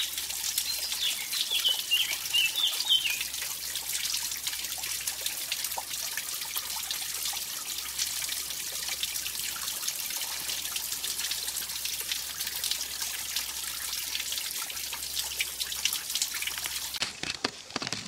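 Mountain stream trickling and splashing over a small waterfall, a steady hiss of running water. A bird chirps a few times in the first three seconds, and the water sound changes abruptly about a second before the end.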